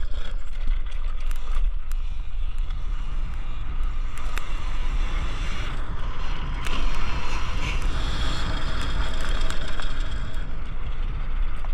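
Electric dirt bike being ridden on a dirt track: a steady run of motor, drivetrain and tyre noise, under heavy wind rumble on the microphone.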